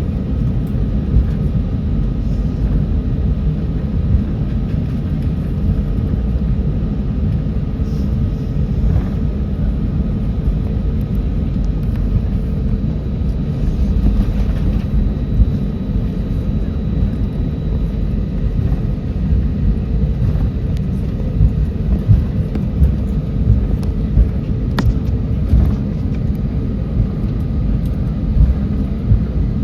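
Boeing 737 cabin noise from a window seat: the engines and airframe make a steady low rumble with faint whining tones above it, with no surge in power, as heard while the plane taxis.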